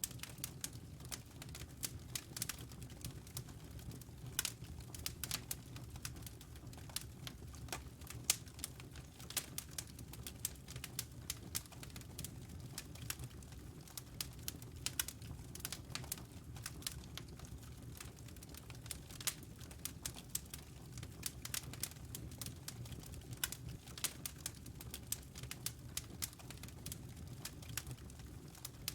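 Wood fire in a fireplace crackling, with irregular sharp pops and snaps of burning logs over a low steady rumble.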